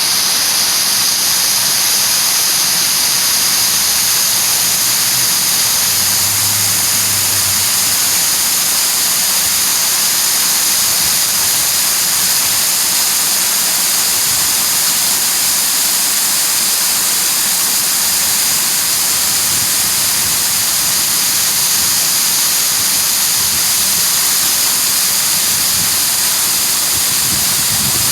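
Steady rushing splash of water pouring down a park water feature, an even hiss that holds at one level throughout.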